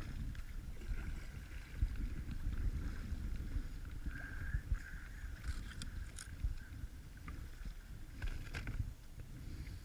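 Kayak being paddled: paddle blades dipping and water washing along the hull, under a steady low rumble, with a few short sharp splashes or knocks in the second half.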